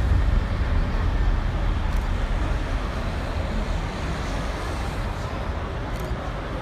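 Boeing 777 jet engines at takeoff power, a steady low rumble that slowly fades as the airliner climbs away.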